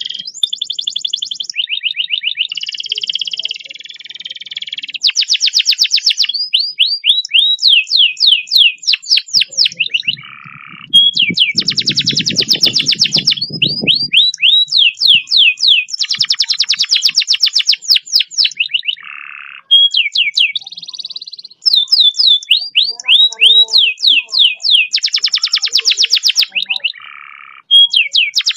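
Domestic canary singing long, fast rolls: dense high trills alternating with runs of repeated downward-sliding notes, a few per second, each phrase broken off by a short pause.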